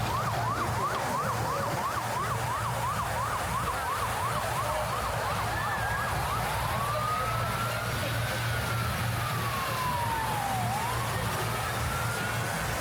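Emergency vehicle siren in yelp mode, about three quick up-and-down sweeps a second, changing about halfway through to a slow wail that rises and falls, over the hum of street traffic.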